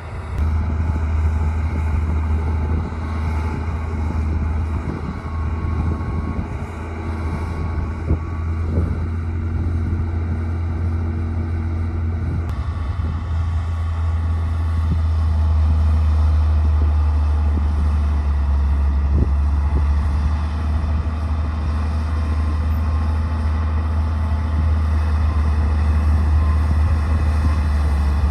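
D60 bulldozer's diesel engine running steadily, a little louder in the second half, with a few knocks and clanks over it.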